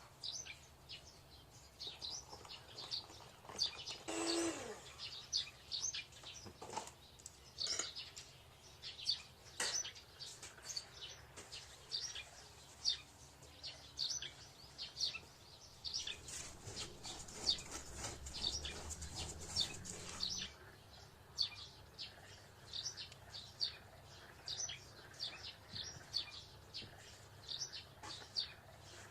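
Small birds chirping, short high chirps repeating several times a second, with a brief hiss partway through.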